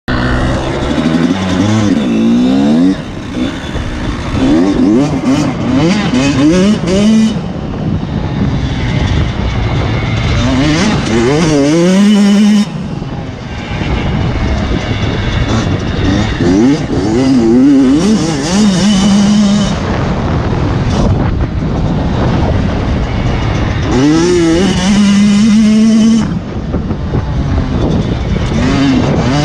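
Motocross bike engines revving hard, their pitch climbing and dropping again and again as riders accelerate and shift, with more than one bike heard at once.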